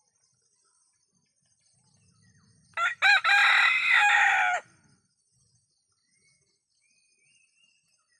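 Ayam kampung (Indonesian native village chicken) rooster crowing once, about three seconds in: a short opening note, then a long held crow lasting about a second and a half.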